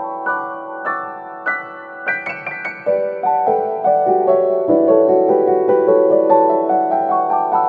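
Background piano music: a gentle melody of single notes stepping up and down over held lower notes.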